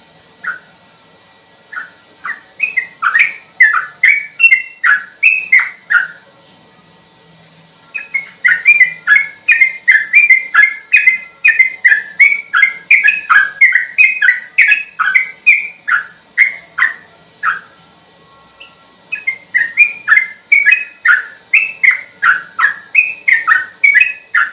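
Yellow-vented bulbul singing rapid runs of short chirping notes, several a second, in three long bouts separated by brief pauses.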